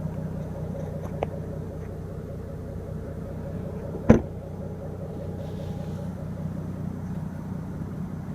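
2014 Jaguar F-Type S's supercharged V6 idling steadily, with a faint click about a second in and a single sharp thump about four seconds in.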